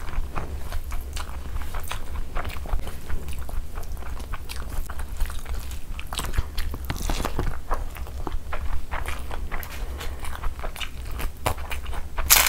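Close-miked chewing of a mouthful of curry and rice, with wet clicks and squelches as fingers mix rice by hand. Just before the end a papad is crushed over the rice with a loud crunch.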